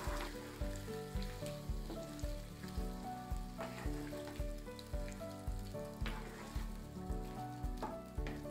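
Marinated chicken sizzling in a nonstick pan while a spatula stirs it, with a few scrapes of the spatula. Background music with a steady beat plays over it.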